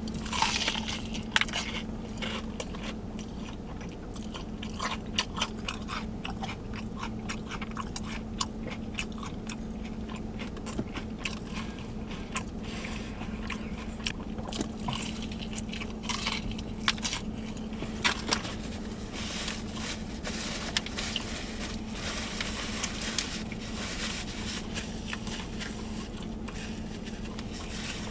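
Close-up crunching and chewing of fried chicken: repeated bites into a crisp-skinned fried chicken thigh with irregular crunches and mouth sounds, over a steady low hum.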